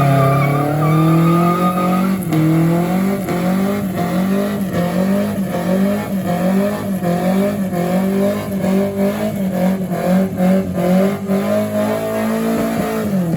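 Car engine held at high, steady revs during a burnout, wavering slightly, with tires squealing against the pavement. The revs begin to drop right at the end.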